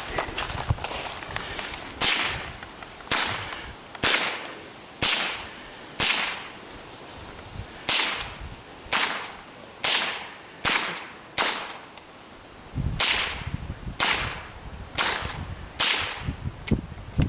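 A .22LR rifle firing a steady string of about fifteen single shots, roughly one a second, each sharp crack trailing off in a short echo, with a brief pause about two-thirds of the way through.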